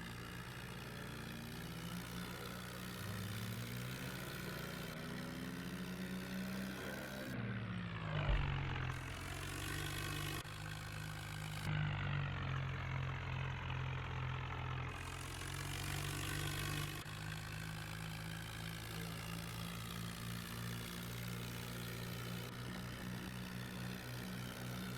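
New Holland tractor's diesel engine running under load while pulling a fully loaded trolley. Its note rises and falls a few times, dipping with a brief thump about a third of the way in.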